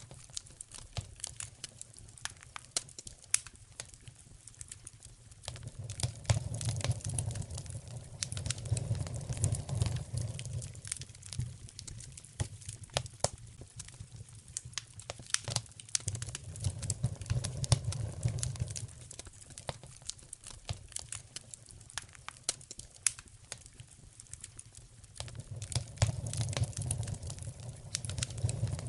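Wood fire in a fireplace crackling, with dense, irregular pops and snaps. A low rumble swells for a few seconds and fades three times.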